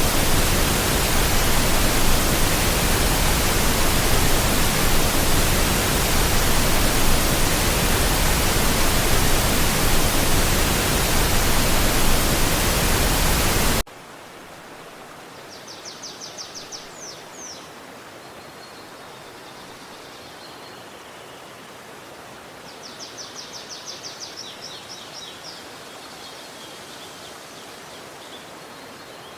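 Loud, steady rush of water that cuts off abruptly about halfway through. A quiet background follows, where a small bird gives two rapid high trills several seconds apart.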